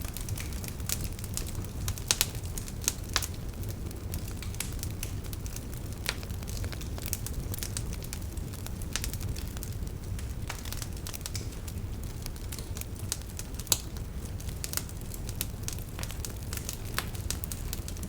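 Wood fire burning in a fireplace, crackling: irregular sharp pops and snaps over a steady low noise from the flames, with a few louder pops about two, three and fourteen seconds in.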